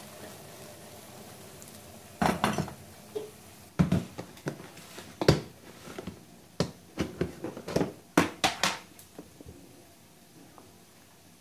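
Dishes and cutlery being handled in a kitchen: a faint steady hiss at first, then a run of about a dozen clinks and knocks of crockery and utensils that stops a couple of seconds before the end.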